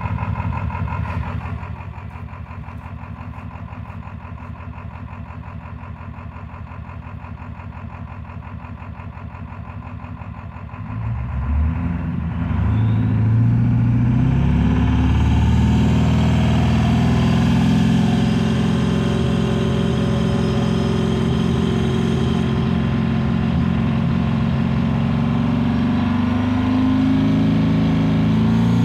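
Ford 7.3 Power Stroke turbodiesel V8 running, steady at idle, then louder and heavier from about eleven seconds in, held at higher power to the end; the owner reports that this engine is misfiring.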